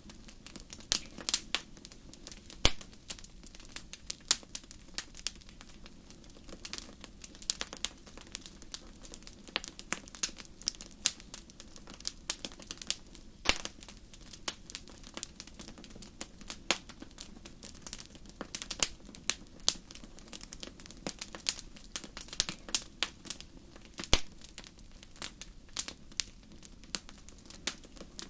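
Wood campfire crackling: irregular sharp pops and snaps, a few much louder than the rest, over a steady low hiss.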